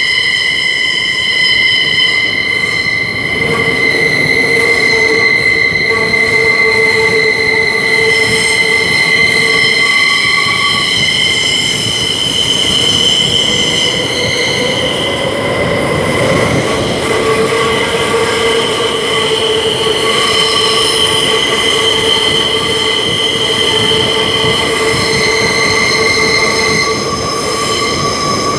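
Wheel squeal from a class 472 S-Bahn electric train running, heard from inside the car: several high, steady squealing tones held together over the rumble of the running gear, a lower squealing tone joining a few seconds in and fading and returning midway.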